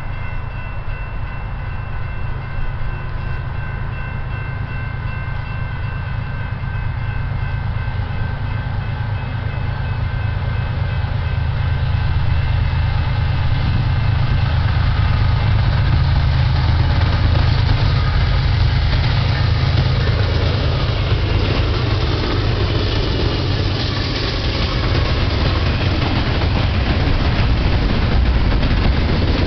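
BNSF double-stack intermodal freight train approaching and passing. The diesel locomotives' low rumble grows louder over the first fifteen seconds, with a faint steady high whine. From about twenty seconds in it gives way to a broad rushing noise of the container cars' wheels rolling on the rail.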